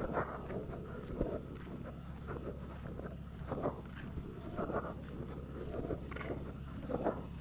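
Steady low rumble of a train with irregular clattering knocks.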